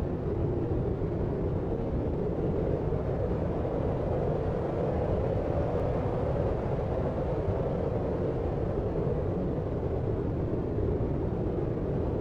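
Deep white noise for sleep: a steady, even noise weighted toward the low end, muffled rather than hissy, with no separate sounds or changes.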